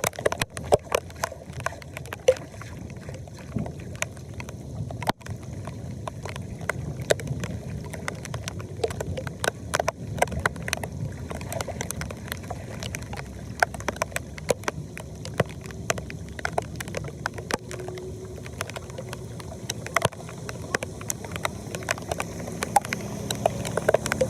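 Floodwater draining into a storm drain: a steady low rush with frequent short splashes and clicks.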